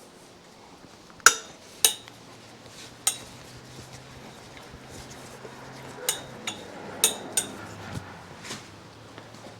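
Metal hand tools clinking and tapping on metal parts, about eight sharp ringing clicks spread out irregularly, over a faint steady low hum that comes in about two seconds in.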